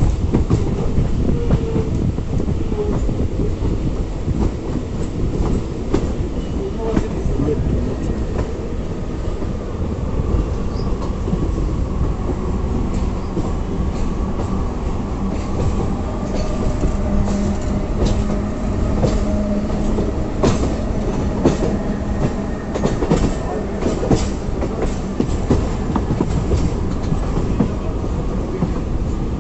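Local train running on the track: a steady rumble with wheels clicking over rail joints, the clicks coming thicker in the second half. A steady hum sounds through the middle part.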